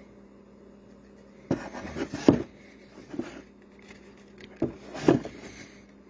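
A few wooden knocks and clunks in two clusters, about a second and a half in and again near the five-second mark, as a finished wooden tray is handled and set down on a hard surface. A steady low hum runs underneath.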